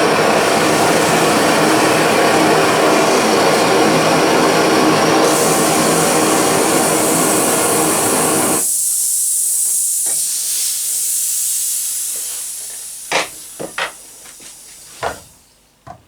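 Radius blow lamp burning with a loud, steady rushing noise that cuts off abruptly a little over halfway through. A high hiss stays on and fades away over a few seconds, followed by a few sharp knocks.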